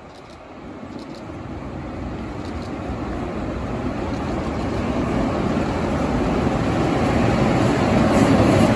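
A train approaching, the rumble of its wheels and running gear growing steadily louder; a low steady drone comes in near the end.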